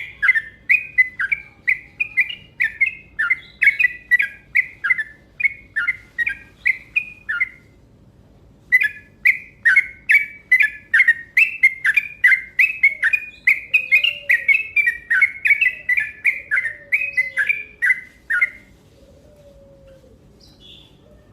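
Trucuk (yellow-vented bulbul) singing a fast 'ropel' song: a rapid run of short, bubbly notes at about three a second, breaking off for a moment partway through and stopping a few seconds before the end.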